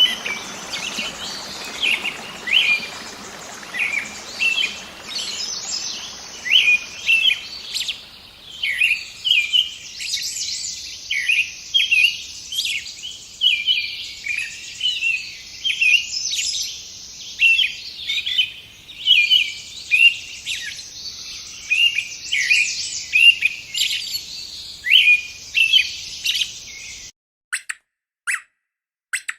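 Birds chirping in a rapid run of short, high calls over a light background hiss. The chirping cuts off suddenly near the end, leaving a few brief high clicks or squeaks.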